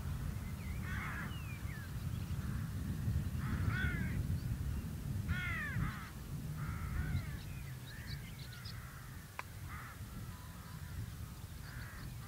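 Birds calling in a series of short, harsh calls, one every second or two, over a continuous low rumble.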